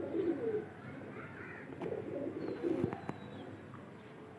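Domestic pigeons cooing in soft, repeated low phrases, with a thin high whistle that slides down in pitch once about two and a half seconds in.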